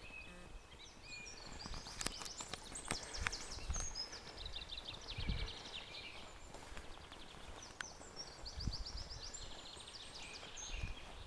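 Small birds singing from the tree line: quick high trills and runs of notes, in two spells, over a low outdoor hiss. A few low thuds come through in the second half.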